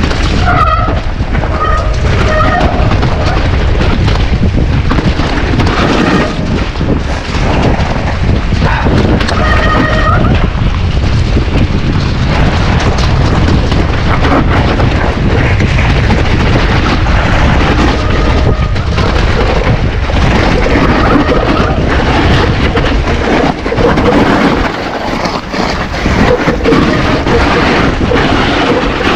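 Heavy wind rumble on an action camera's microphone during a mountain-bike descent on wet trails, loud and continuous. A few short high-pitched squeals come in near the start and again about ten seconds in.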